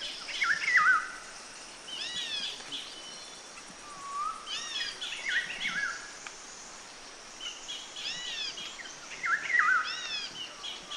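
Songbirds singing: repeated phrases of quick, arching whistled notes and chirps, coming in bursts every two to three seconds over a steady outdoor hiss.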